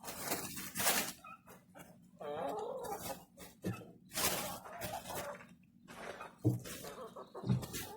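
A farm animal gives a short wavering call about two seconds in, among brief rustling noises and a few dull knocks.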